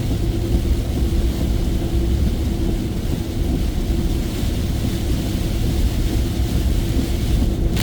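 Heavy rain drumming on a moving truck's roof and windshield over a steady low rumble of engine and road, heard from inside the cabin. A brief louder hiss comes near the end.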